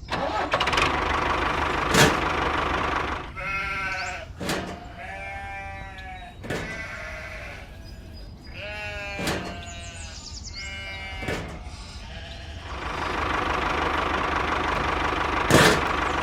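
Several short bleating calls, each bending in pitch, in the middle stretch. A steady rushing noise runs at the start and again near the end, and sharp knocks come every few seconds.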